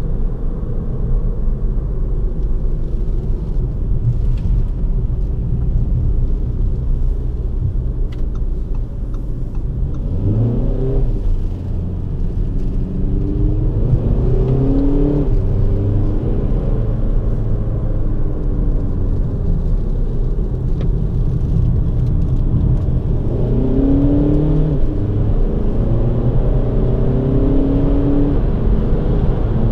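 Four-cylinder 2.0 TDI turbodiesel of an Audi Q2 quattro heard from inside the cabin, with steady road and tyre rumble. About ten seconds in the engine note starts to climb in pitch under acceleration, and it climbs again several times, each rise breaking off before the next.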